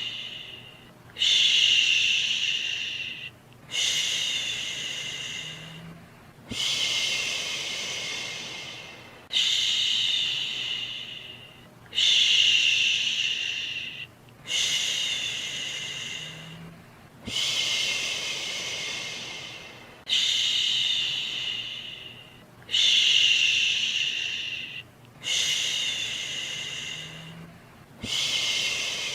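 Soothing 'shhh' shushing sounds, repeated one after another about every two and a half to three seconds. Each starts suddenly and fades away, over a faint steady hiss, to lull a baby to sleep.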